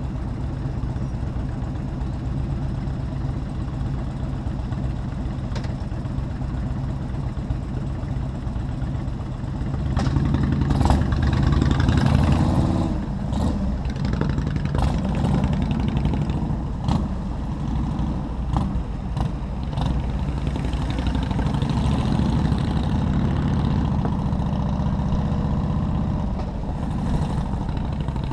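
Motorcycle engine running while riding, with a steady low drone. It gets louder and noisier about ten seconds in, and short sharp clatters come through the second half.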